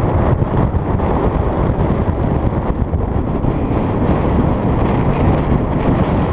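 Strong wind buffeting the microphone, a loud, steady rumbling roar.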